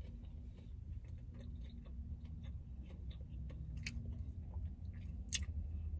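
A person chewing crisp salad lettuce: a scatter of faint crunches and small clicks, with two sharper clicks near the end, over a steady low hum.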